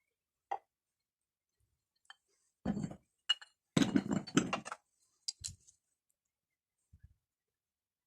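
Hard objects, likely stones, being handled and knocking and clinking together: a few scattered clicks, with two short bursts of clatter around the middle.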